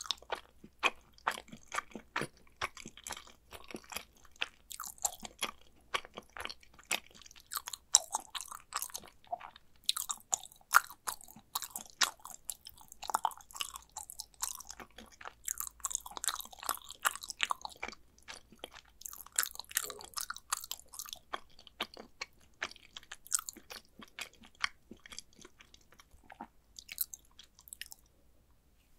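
Someone chewing a mouthful of mac and cheese, heard as a dense, irregular run of short clicks and smacks that stops about a second before the end.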